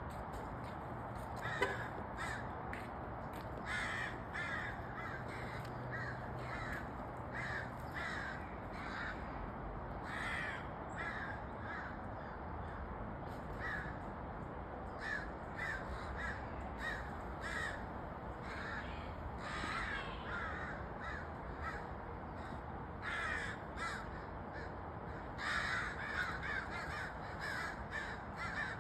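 Birds calling over and over in short harsh calls, several in a row at a time, over a steady background hiss; the calls are thickest and loudest near the end. A single sharp click sounds about a second and a half in.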